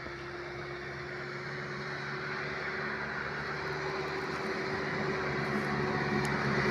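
An engine running with a steady hum, growing gradually louder as it approaches.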